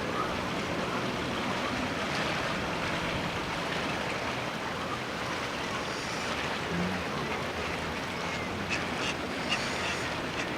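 Wind blowing steadily across the microphone, a constant rushing noise.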